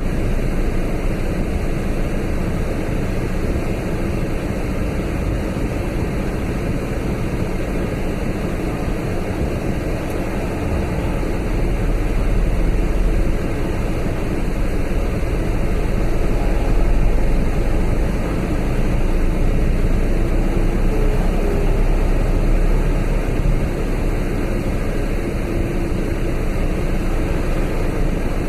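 Steady vehicle and road noise with a strong low rumble, growing a little louder partway through.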